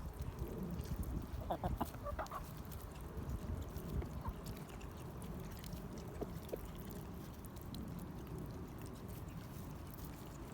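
Backyard hens clucking softly while they feed, a short flurry of calls about a second and a half in, then a few scattered single clucks over a steady low rumble.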